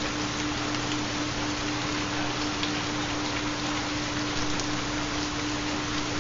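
Steady recorded rainfall with occasional distinct drop ticks, with a constant pure hum-like tone underneath: the theta binaural-beat tone layered under the rain.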